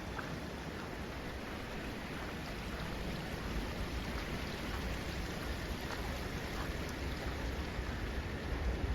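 Steady rushing of water, an even wash with no breaks, with a low wind rumble on the microphone building near the end.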